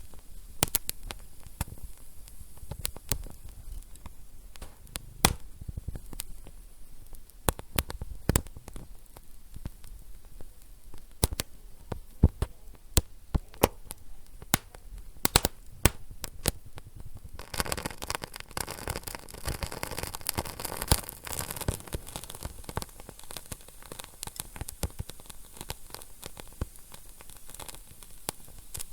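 Wood fire crackling in a fireplace, with many sharp pops. About two-thirds of the way in, the crackling grows denser and a steady hiss joins it.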